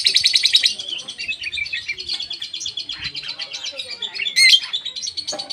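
Songbird giving rapid, harsh 'cek cek cek' chattering calls, loudest in a burst at the start and again about four seconds in; a young bird practising its chatter call.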